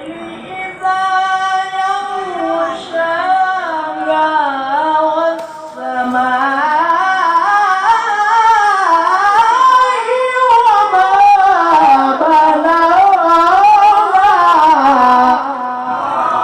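A male Quran reciter with a high voice chants one long melismatic phrase without words, full of wavering ornamental turns. About six seconds in, the voice gets louder and climbs higher in pitch.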